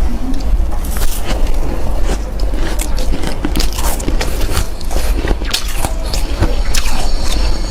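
Close-miked crunching of freezer frost being bitten and chewed: a dense, irregular run of sharp crackles and crunches over a steady low rumble.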